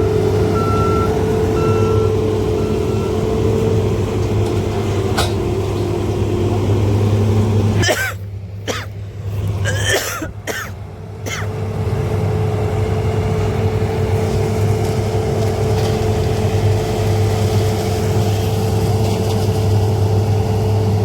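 Heavy diesel machinery running steadily with a deep, even hum. Short repeated warning beeps sound during the first few seconds, then stop. About eight seconds in, the engine sound drops away for roughly three seconds, with a few short rough sounds, then comes back.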